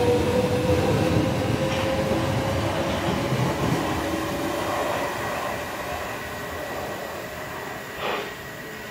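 Southeastern electric multiple unit passing at speed and running away into the distance. A steady motor whine and wheel rumble fade as it recedes, with a brief burst of noise near the end.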